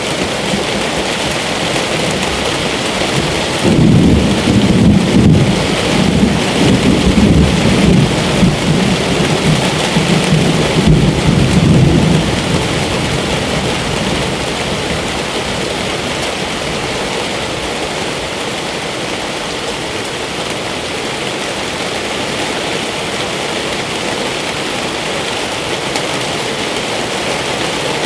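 Steady rain falling, with a long low rumble of thunder that starts about four seconds in and dies away after about eight seconds.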